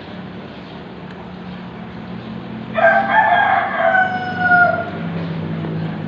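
A rooster crows once, starting about three seconds in: a loud call of about two seconds ending in a long held note. A steady low hum runs underneath.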